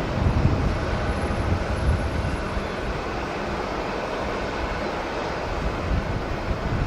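Jet airliner engines running, a steady rumble with a faint whine, mixed with gusty wind buffeting the microphone, the gusts strongest in the first few seconds.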